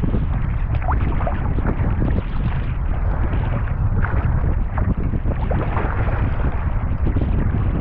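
Strong wind buffeting the camera microphone in a constant low rumble, over rough water splashing around a sea kayak.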